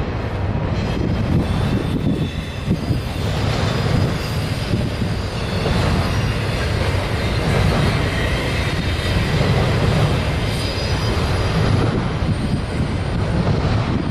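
Double-stack intermodal container train rolling steadily across a steel girder bridge, a continuous rumble of wheels on rail with faint high wheel squeal above it.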